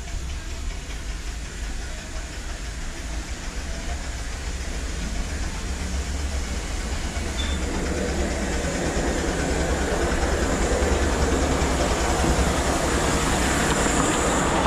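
Miniature railway train running along the track, growing steadily louder over the whole stretch, over a steady low rumble.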